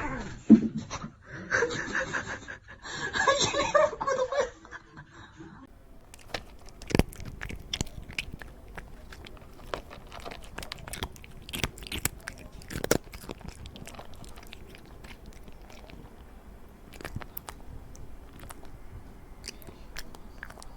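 Voices for the first few seconds, then a long run of irregular crunching clicks, like something hard being chewed.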